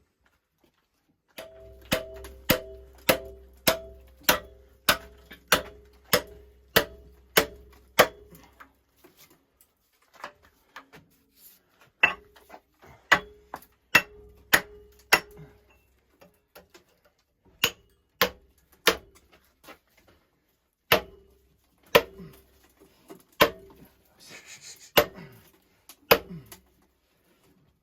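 Repeated hammer blows on a cast-iron sectional steam boiler, struck to split its stuck sections apart. A quick run of about two ringing metal blows a second comes first, then slower, irregular blows roughly a second apart.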